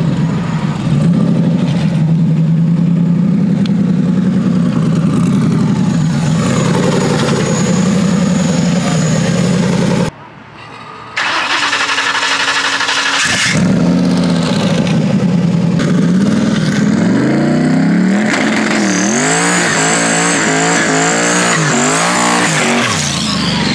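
Drag car engine running steadily for about ten seconds. After a brief drop it revs up, its pitch wavering up and down for several seconds, and falls away near the end.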